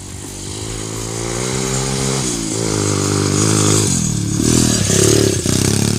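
Motorcycle engine revving: the pitch climbs steadily for about two seconds, drops, then is blipped up and down a few times. It is loudest near the end.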